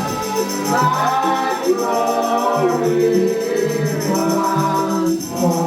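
Choir and congregation singing a gospel worship song over a bass line, with a tambourine shaken in a steady beat.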